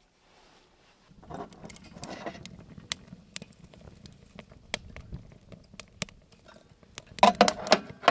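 Wood fire crackling in a wood-fired pizza oven, a low hiss with scattered sharp pops, followed by a louder rustling, scraping burst near the end.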